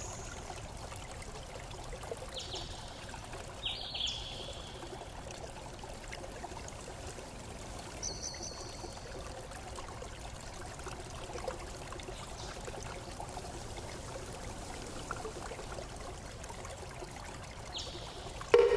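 Water trickling and pouring steadily, with a few brief high-pitched plinks scattered through it; the loudest comes at the very end.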